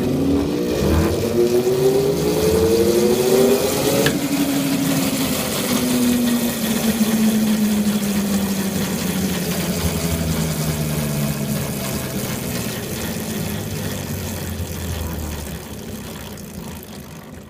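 Electric motor starting under a load of about 170 pounds: its hum rises in pitch for about four seconds, then a click as the motor cuts out, and the machine coasts down with a slowly falling hum that fades near the end. The load is too much for the motor, which trips out.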